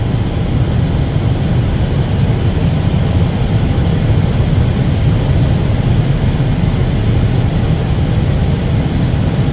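Steady cockpit noise of an Airbus airliner on short final: engines and rushing airflow with a deep low hum, unchanging, as it descends from decision height toward touchdown.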